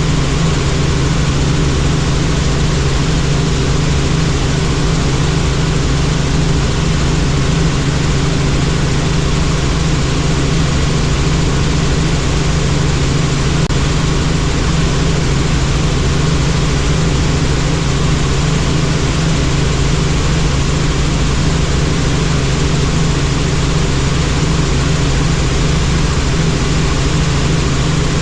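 Helicopter in flight, its engine and rotor making a loud, steady drone with a strong low hum.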